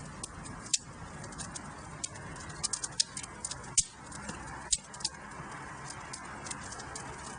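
Wood fire in a fireplace crackling: irregular sharp pops and snaps over a steady hiss, with a few louder pops about a second in and near four and five seconds.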